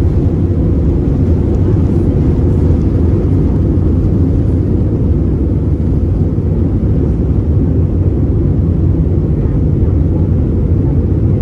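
Steady low engine and airflow noise inside the cabin of an Airbus A320 on its takeoff climb.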